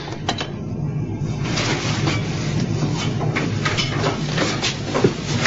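Steady low machinery drone of the U-boat. About a second and a half in, a rushing hiss joins it, with scattered knocks and clanks.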